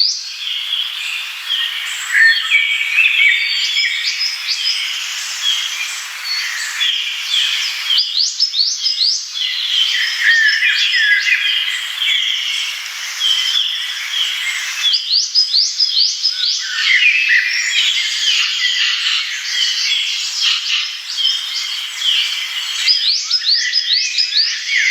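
Several songbirds singing at once: a dense chorus of overlapping chirps, trills and quick whistled notes that continues without a break. The mix shifts abruptly twice, about a third and about two-thirds of the way through.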